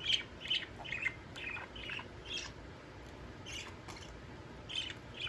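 Pet budgerigars chirping: short, high chirps about twice a second, thinning out about halfway through, with a couple more near the end.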